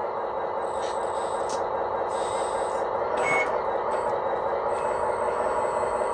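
CS-RC16 electronic sound module in a 1/14 RC loader, playing a simulated diesel engine idling steadily through its small speaker. A few short high-pitched hisses and tones sound over it.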